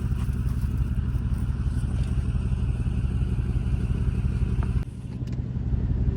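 A vehicle engine running with a steady low drone. The sound drops suddenly about five seconds in, then builds back up.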